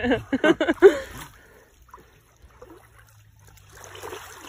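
A few words of speech, then a lull, then water sloshing and trickling that builds up near the end as someone moves through shallow muddy water.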